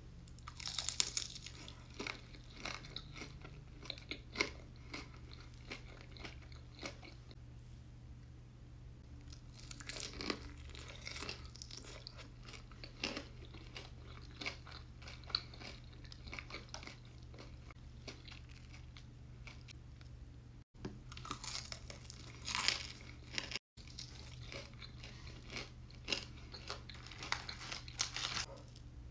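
Close-up crunching and chewing of breaded Wingstop fried chicken tenders: sharp bites into the crispy coating about a second in, around ten seconds in, and again near 22 seconds, with chewing crunches between. A steady low hum runs underneath.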